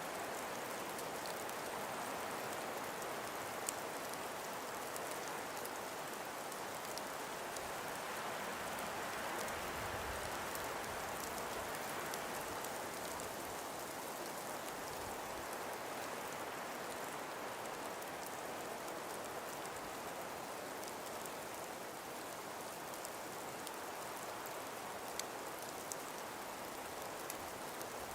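A calm breeze blowing steadily through frost- and ice-covered forest trees, an even hiss with a few faint ticks scattered through it.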